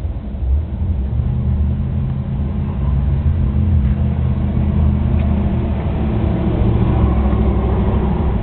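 BMW 330i E46's straight-six engine running with a steady low hum, getting a little louder after about three seconds.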